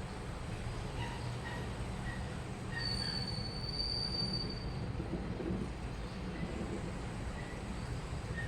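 Washing machine running with a steady low rumble, a few short faint squeaks, and a thin high squeal lasting about a second and a half from about three seconds in.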